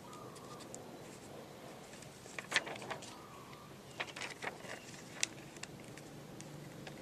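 Sheet of paper being handled and folded into a paper rocket: scattered short crackles and taps, bunched about two and a half seconds in and again from about four to five seconds in.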